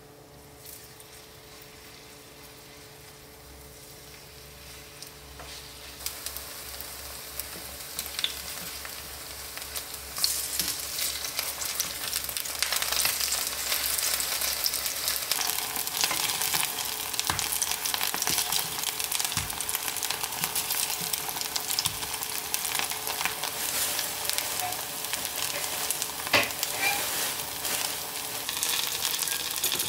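Kimchi pancake batter frying in plenty of oil in a nonstick pan: a steady sizzle with crackling spatters, faint at first and growing louder as more spoonfuls go in, stepping up about ten seconds in.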